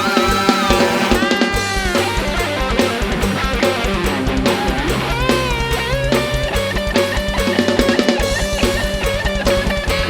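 Live band playing an instrumental passage between sung lines: electric guitar and bass over a drum kit. The bass drum beats fast and evenly, getting denser about six seconds in, under a lead line that slides up and down in pitch.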